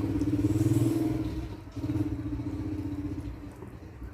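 A small engine running steadily, its sound dipping briefly twice.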